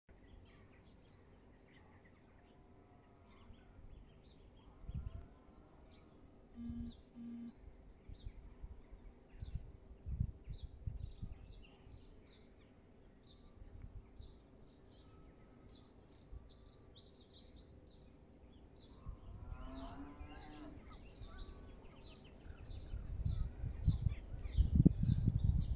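Small birds chirping and singing, many short high calls repeating all through. Low rumbling comes in and grows louder near the end.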